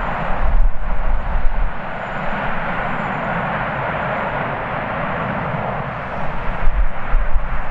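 Jet airliner engine noise, a steady rushing roar, with strong wind buffeting the microphone in two low gusts, one about half a second in and one near the end.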